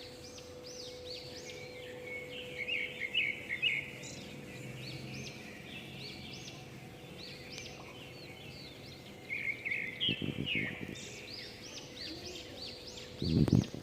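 Small birds chirping over and over in quick high calls, over a steady low hum. Two dull low knocks come about ten seconds in and, louder, just before the end.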